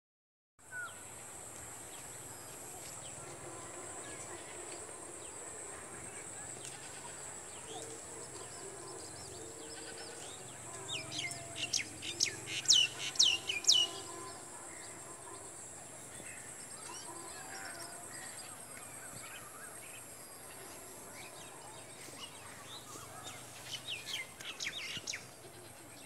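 Birds calling outdoors: a rapid run of loud, sharp chirps about halfway through and a shorter run near the end, over steady rural background noise with a constant high-pitched hiss.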